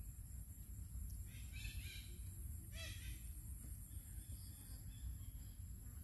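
Two short, harsh bird calls, the first about a second in and the second about a second later, over a faint low rumble and a steady high-pitched hiss.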